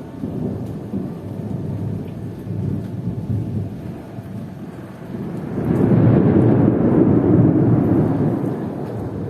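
Rolling thunder over heavy rain. The rumble starts at once, eases off midway, then swells to a louder, longer peal a few seconds later before fading.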